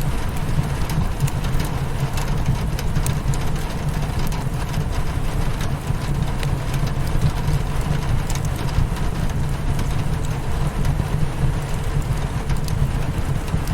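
Rain hitting a windowpane mixed with a crackling fireplace: a steady rush with a deep low rumble underneath, dotted with scattered sharp crackles and ticks.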